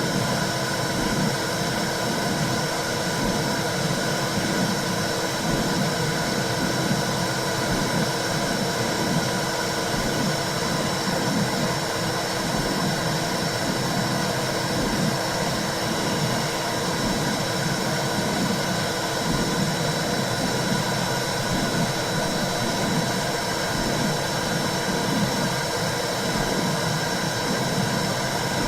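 Womb sound for calming a baby: a steady whooshing white noise with a low, repeatedly swelling pulse underneath.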